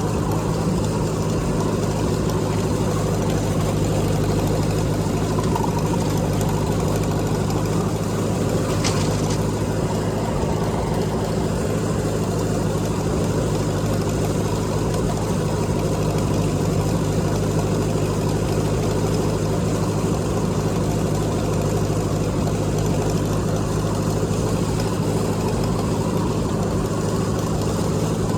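Tractor engine running steadily at an unchanging speed.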